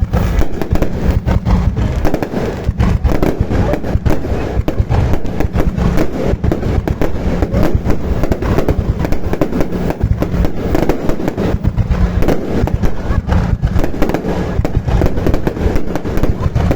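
Fireworks display going off: a dense, unbroken barrage of bangs and crackles, many per second.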